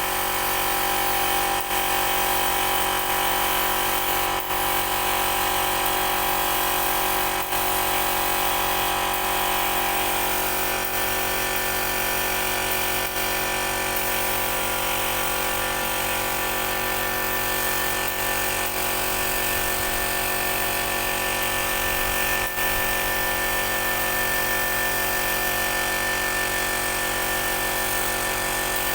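A motor-driven tool running steadily without a break, with a steady whine; its tone shifts slightly about ten seconds in.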